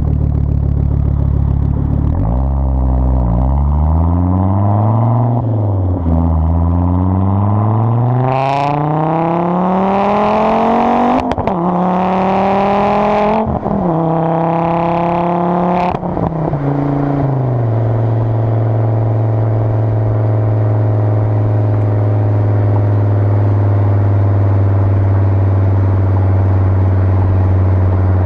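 Volvo S60R's turbocharged five-cylinder engine through a custom 3-inch resonated exhaust, revving up over several seconds with the pitch climbing, dropping sharply, climbing again, then settling into a steady drone for the last ten seconds.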